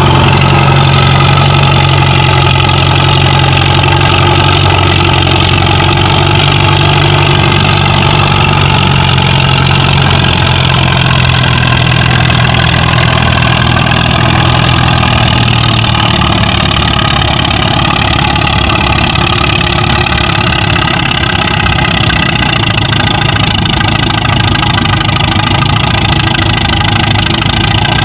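Tractor engine running steadily close by, at a low, even speed. Its deep hum weakens about sixteen seconds in while the engine keeps running.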